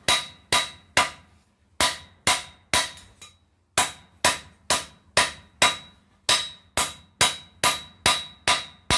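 Blacksmith's hand hammer striking a hot steel tong blank on an anvil in a steady rhythm, a little over two blows a second, with a short pause about three seconds in. Each blow rings briefly. The blows are drawing out the tong blank to stretch it longer.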